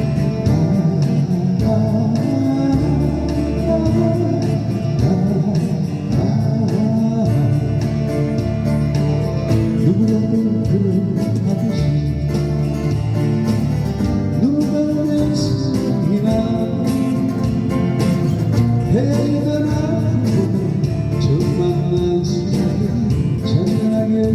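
Live band music: a street band playing a Korean 1970s–80s pop ballad, guitar prominent over a steady beat, with a melody line over it, during a passage where no lyrics are sung.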